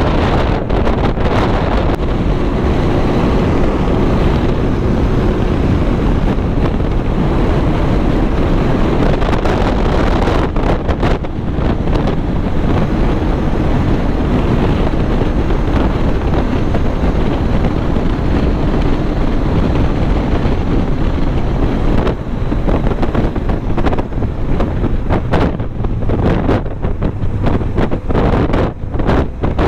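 Strong wind buffeting the microphone: a loud, continuous rush with a heavy low rumble.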